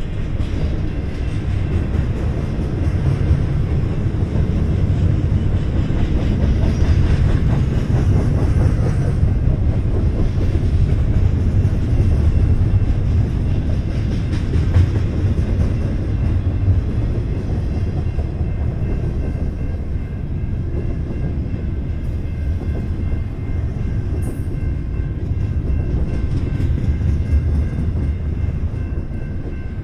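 Double-stack intermodal freight train of container well cars passing at speed: a loud, steady low rumble of wheels on the rails with the rattle of the cars.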